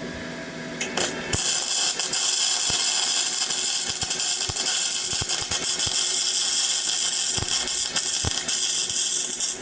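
Flux-core arc welding with a Parkside PMSG 200 A1 welder. The arc strikes with a couple of short crackles about a second in, then keeps up a steady crackling sizzle with scattered pops, and stops just before the end. The bead is being run with the gun pushed rather than dragged.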